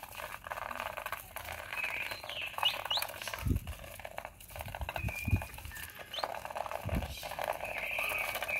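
Young whistling ducks pecking at chicken-feed pellets: a dense patter of quick ticks. Now and then comes a short rising whistled peep, and a few soft low thumps.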